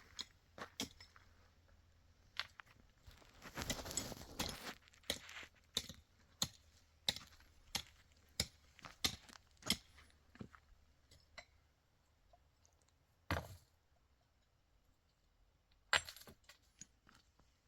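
Irregular small clicks, clinks and knocks of objects being handled, with a short burst of rustling about four seconds in.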